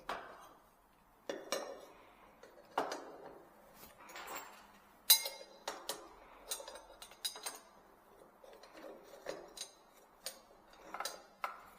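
Irregular clinks and knocks of hard objects being handled and set down, about a dozen over the stretch, with a short ring after each; the loudest comes about five seconds in.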